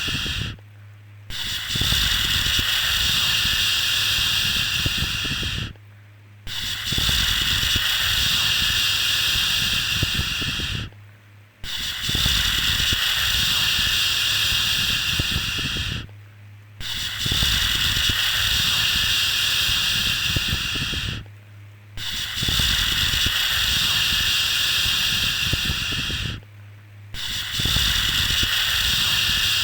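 Long drawn-out 'shhh' shushing sounds, each lasting about four and a half seconds and separated by brief pauses, repeating evenly about six times, the soothing shush used to settle a baby to sleep.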